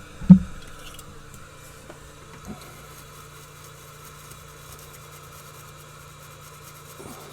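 A sharp thump, then a steady low electric hum from a small motor or fan that stops near the end.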